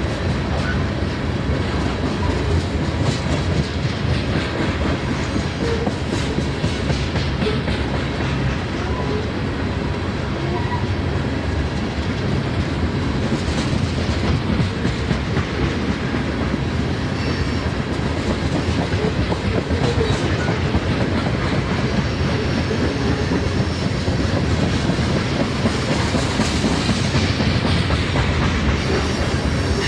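CSX freight train's cars rolling past steadily, the wheels clicking and rumbling over the rail.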